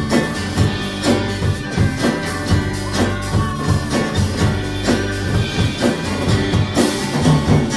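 Live band playing an instrumental passage with a steady drum beat and no vocals.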